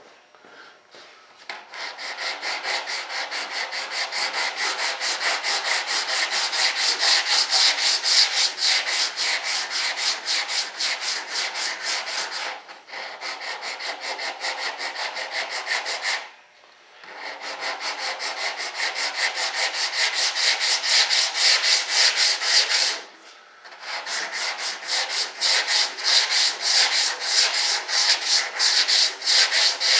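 Sandpaper rubbing back and forth over hardened Bondo body filler in quick, even strokes, cutting the filler down flat. The sanding starts about a second and a half in and stops briefly twice.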